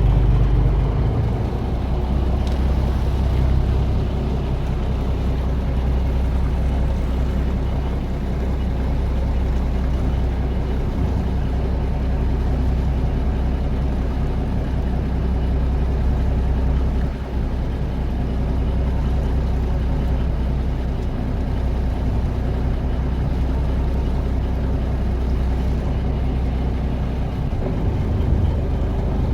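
Fishing boat's engine running steadily, a deep, even hum.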